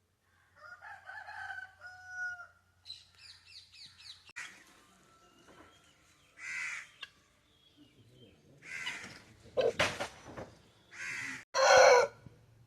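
A rooster crowing about half a second in, then high chirping and a run of short rough bursts, the loudest near the end.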